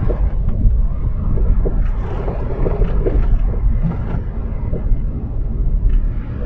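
Car driving on a snow-covered road, heard from inside the cabin: a steady low rumble of engine and tyres with road noise, and small irregular bumps through it.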